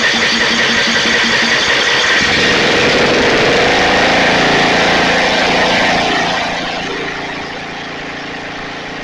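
Snapper riding mower's engine running loud and steady just after starting, then dropping to a quieter, lower run about six and a half seconds in.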